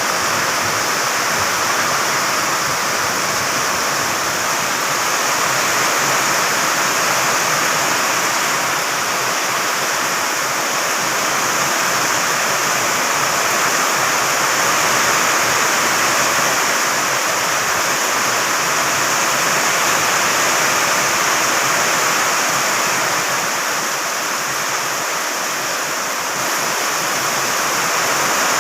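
Heavy rain falling hard, a loud, steady, dense hiss with no let-up.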